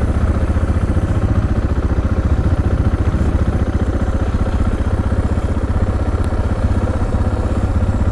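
Motorcycle engine running steadily at idle close to the microphone, a rapid even pulsing with a strong low rumble.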